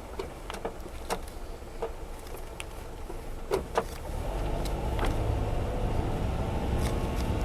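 Cabin noise of a Honda Zest Spark kei car on the move: a steady low engine and road rumble with scattered small clicks and rattles. The rumble grows louder about four seconds in.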